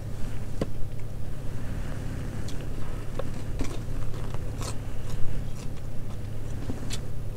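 A person biting and chewing food close to the microphone, with scattered crunches and short clicks, over a steady low hum.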